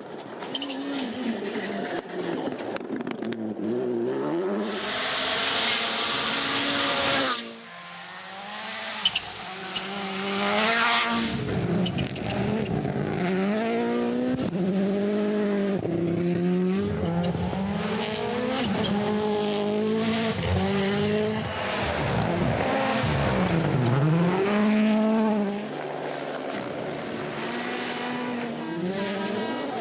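Turbocharged four-cylinder rally car engines at full attack, the pitch climbing through the gears and dropping again over and over as the cars lift and brake, with a couple of seconds of loud rushing noise near the start. The sound switches abruptly between cars about a quarter of the way in and again near the end.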